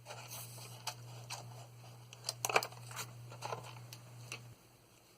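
Light clicks and taps of plastic model parts being handled, a quick cluster of them loudest about two and a half seconds in, over a steady low hum that cuts off about four and a half seconds in.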